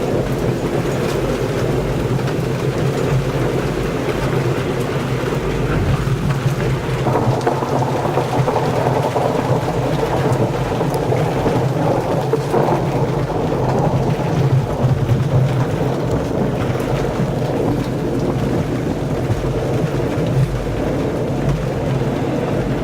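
Heavy rain pouring steadily during a thunderstorm, with thunder rumbling that swells about seven seconds in and eases off later.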